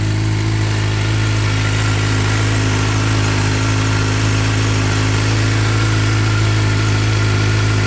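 2016 Suzuki GSX-R750's inline-four engine idling steadily through an aftermarket Yoshimura exhaust, freshly started on a battery just recharged with a battery tender.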